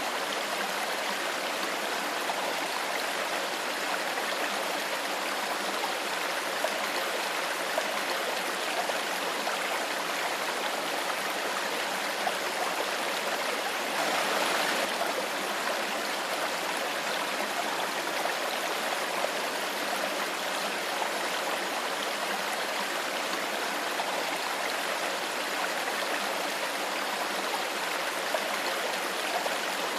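Clear stream water flowing and burbling steadily, with a brief slight swell in the rush about halfway through.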